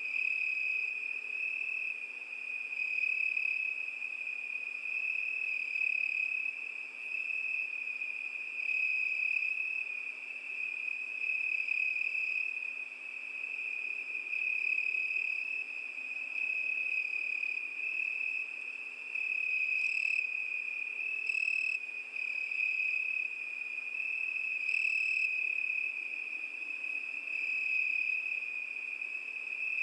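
Crickets chirring continuously at one high pitch, swelling and easing about every three seconds, with a few brief higher notes about two-thirds of the way in.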